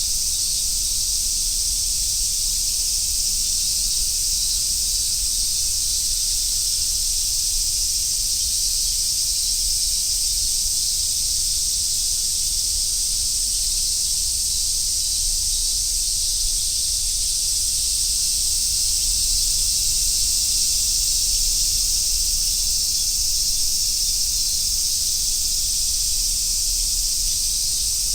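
A dense summer chorus of cicadas, mainly large brown cicadas (aburazemi), forming a steady, unbroken high hiss with no pauses, over a faint low rumble.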